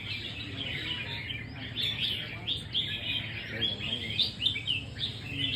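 Several red-whiskered bulbuls singing at once: dense, overlapping quick chirps and warbling phrases, with no let-up.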